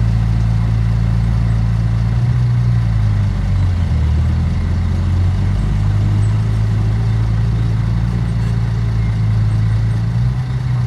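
Heavy diesel engine of earthmoving machinery running steadily. Its note drops briefly about four seconds in, then comes back up.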